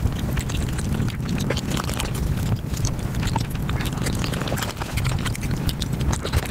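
Close-miked eating sounds, sped up about five times: a fast, unbroken run of wet chewing and mouth clicks from a person eating flatbread with curry by hand.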